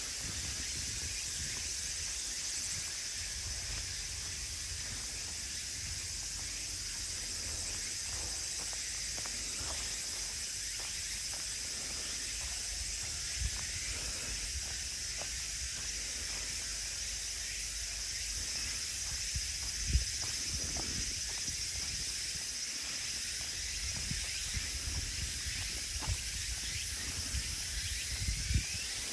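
Steady high-pitched chorus of insects, with soft footsteps and low rumbling underneath, and one short knock about twenty seconds in.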